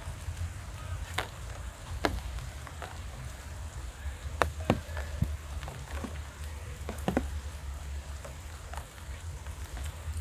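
Scattered sharp taps of rain drops falling, about half a dozen irregular drips over a steady low rumble.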